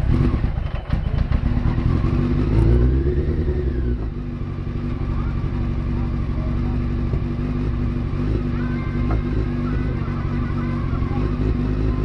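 Honda CBR900RR Fireblade's inline-four engine running on choke as it warms up from cold. It is rough and louder for the first few seconds, then settles to a steadier idle about four seconds in. The owner judges it not yet fully warmed and ready.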